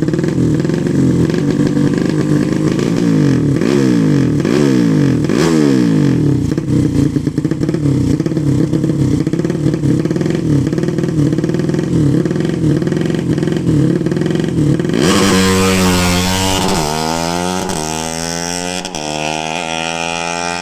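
A 200 cc motorcycle racing engine is revved in repeated throttle blips, its pitch rising and falling over and over. About 15 seconds in the sound changes suddenly to a brighter, noisier run whose pitch dips and then climbs steadily in one long rev.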